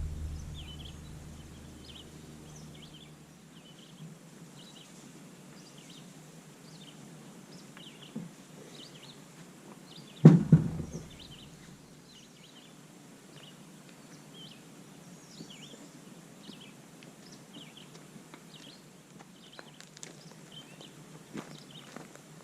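A small bird chirping over and over, short high chirps about once a second, in quiet outdoor surroundings. A single heavy thump comes about ten seconds in, with a lighter knock a couple of seconds before it.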